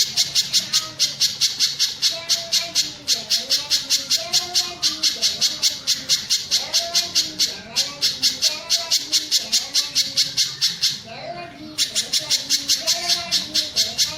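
Mountain spiderhunter ('pijantung gunung') calling in a fast, even run of sharp, high chips, about five a second, broken by a short pause about eleven seconds in, with fainter, lower warbling calls underneath.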